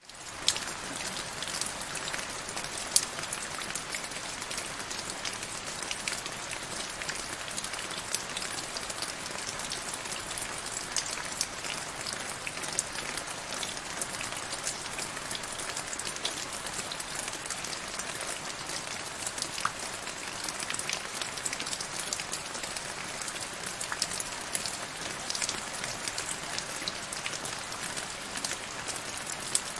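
Steady rain falling into a shallow puddle on grass: an even hiss of many small drop ticks, with a few louder single drops standing out.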